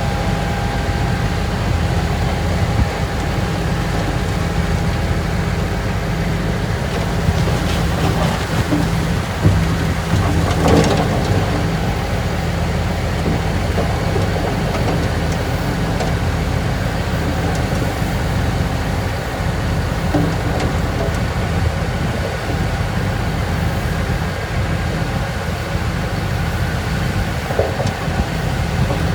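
Heavy diesel earthmoving machinery running steadily under load, a deep engine drone, with a few clanks and a clattering burst about eight to eleven seconds in.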